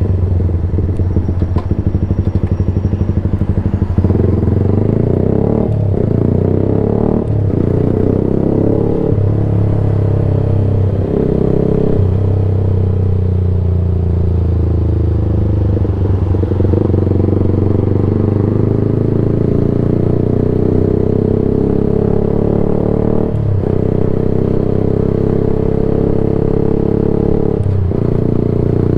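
Yamaha YZF-R sports bike riding through an unbaffled Black Widow exhaust can, very loud. The engine note rises and falls, with several brief drops in revs spread through the ride.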